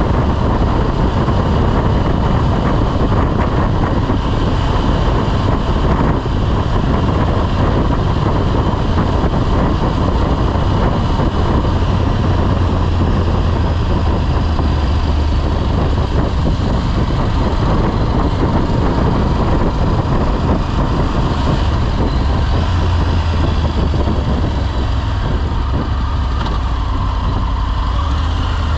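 Motorcycle riding along: a steady, unbroken engine drone with rushing noise over it.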